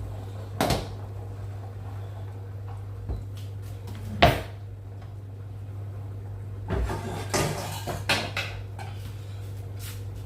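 Kitchen handling sounds: sharp knocks and clatters of things being set down or a cupboard being shut, one early, the loudest about four seconds in, and a cluster of several near the end, over a steady low hum.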